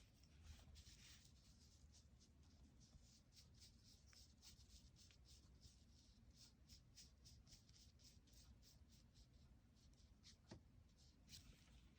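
Faint, quick scratching strokes of a painting or drawing tool on paper, several a second, with a sharper tick near the end.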